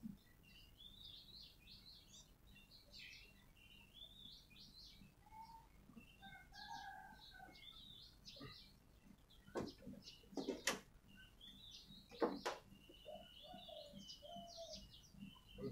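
Small birds chirping and twittering in short high bursts, with a few lower short notes among them. Three sharp knocks about ten to twelve seconds in stand out as the loudest sounds.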